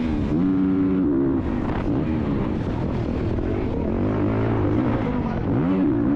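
Dirt bike engines revving hard under throttle, their pitch dipping and climbing again just after the start and once more near the end.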